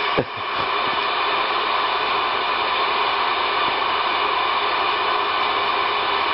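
Steady hiss of static from a Cobra 2000 CB base station's speaker with no one transmitting, with a short click just after the start.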